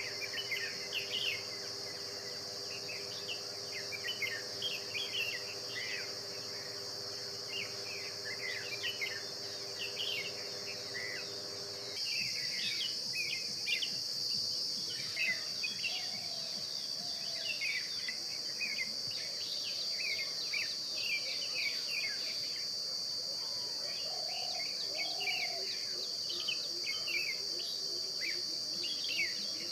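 A steady, shrill insect drone with many short bird chirps over it. About twelve seconds in the recording cuts and the drone becomes louder.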